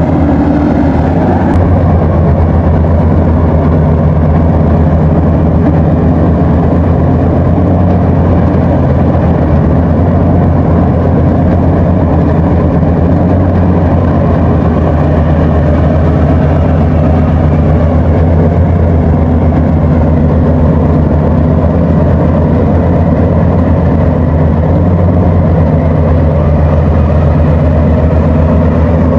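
Rice combine harvester's engine running steadily under load throughout.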